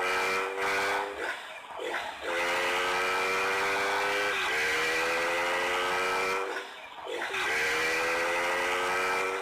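Motorcycle engine under hard throttle, its pitch climbing slowly in long runs with short breaks between.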